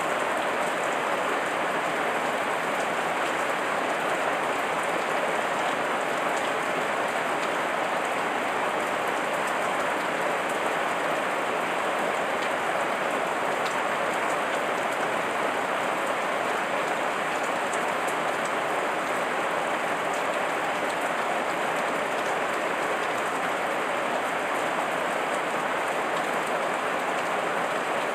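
Heavy rain falling steadily, a dense even patter of drops on leaves.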